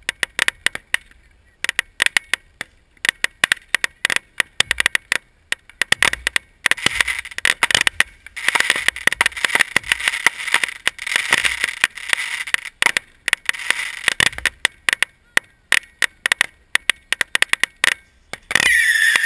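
Fireworks going off in rapid succession: dense crackling and sharp pops, with a few deeper booms. Near the end a whistling firework starts, its whistle falling slightly in pitch.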